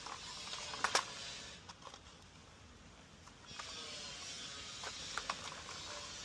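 Light plastic clicks and taps as the caps are pressed back onto the pool cleaner's turbine A-frame: one sharper click about a second in and a few small ones near the end, over a steady faint hiss.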